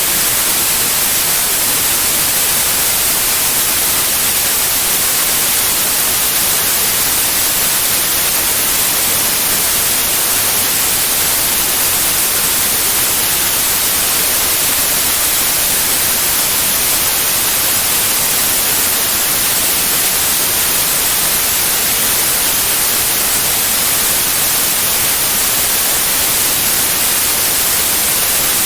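Steady white noise, an even hiss with most of its energy in the high end, unchanging throughout.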